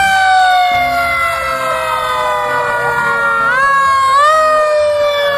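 Fire engine siren wailing, its pitch sliding slowly down and then climbing again about three and a half seconds in.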